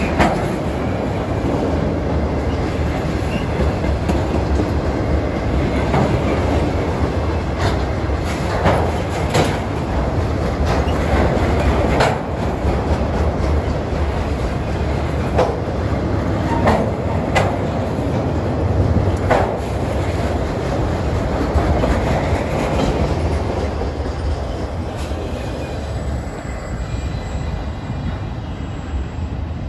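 Freight train cars rolling past: a steady rumble with irregular clanks and bangs from the wheels and couplers, easing off slightly near the end.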